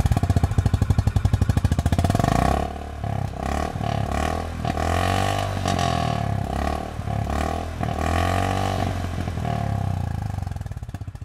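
Honda CB350 RS's 348 cc single-cylinder four-stroke engine running through its stock exhaust. It is loud and evenly pulsing for the first couple of seconds, then settles lower while the throttle is blipped, the exhaust note rising and falling several times.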